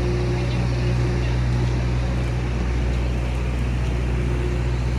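Steady low rumble and drone of a moving vehicle heard from inside, with a constant low hum and no change in pace.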